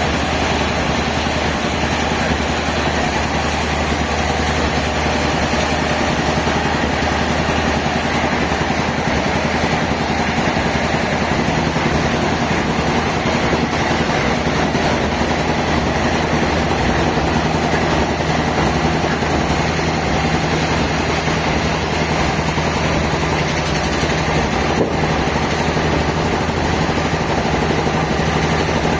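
Sawmill machinery running steadily: a continuous mechanical drone with a low hum, joined by a second, higher hum about twelve seconds in.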